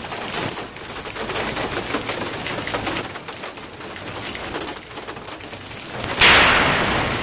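Heavy rain falling and pattering on wet pavement, with many crackling drops. About six seconds in, a sudden loud crack fades away over about a second.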